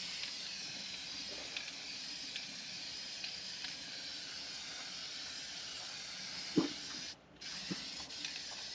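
Aerosol can of rust reformer spraying in a steady hiss, cut off briefly about seven seconds in, just after a light knock, then spraying again. The can is nearly empty.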